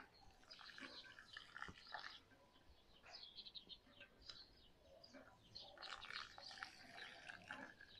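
Faint, scattered chirping of birds over quiet outdoor ambience, thickest about midway through and again about three-quarters of the way through.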